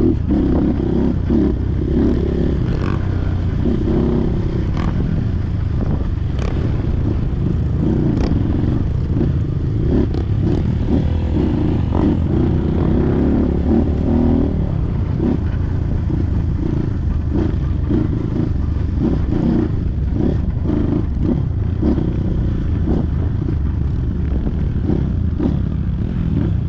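Trail motorcycle engine running steadily while being ridden off-road, with scattered knocks and clatter over rough ground.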